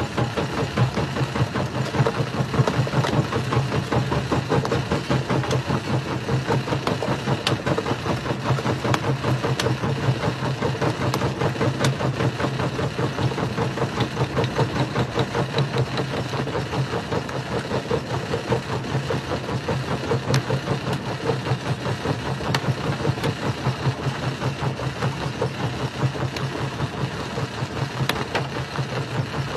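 Jaw rock crusher running under load: a steady, rapidly pulsing mechanical drone with occasional sharp clicks.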